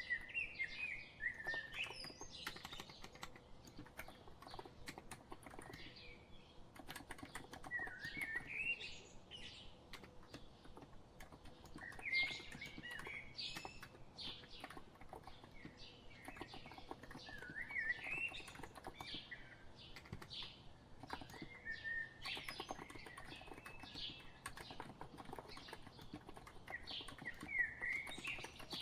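Typing on a COX Empress electro-capacitive keyboard: a steady, uneven patter of soft key clicks. Behind it a bird sings, repeating a short warbling phrase about every four to five seconds.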